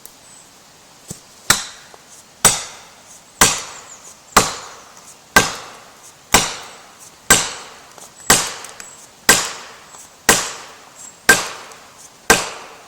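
About a dozen heavy, sharp blows struck on wood at a steady pace of about one a second, each with a brief ringing tail, like chopping or driving a felling wedge.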